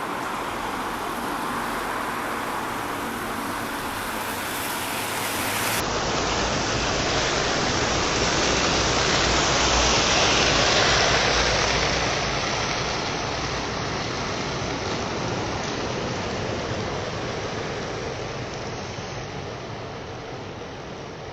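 Steady rushing noise with no tones or tune in it, swelling to its loudest about ten seconds in and then slowly fading.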